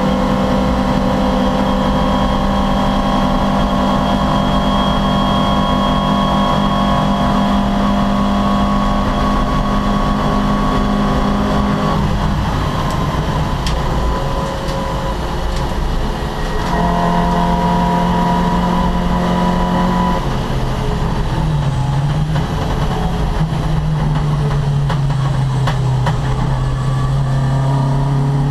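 Opel Kadett C racing engine driven hard on track. It holds a steady high note for about twelve seconds, drops back about halfway, then returns to a steady note. Near the end it falls lower and climbs slowly again as the car pulls through the next gear.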